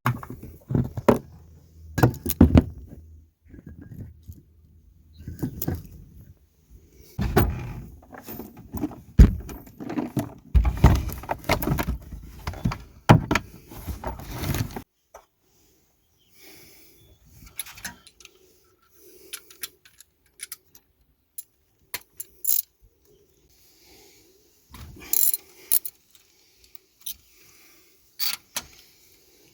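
Metal tools and parts clinking and clanking as they are handled, a rapid run of sharp knocks for about the first half, then only scattered light clicks after an abrupt drop about halfway through.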